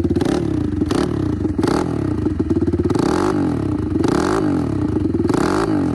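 Dirt bike engine revving hard and backing off over and over, its pitch rising and falling about once a second.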